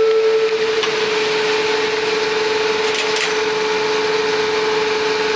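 Light-rail train running: a steady whine over a rushing noise, with two short clicks about three seconds in.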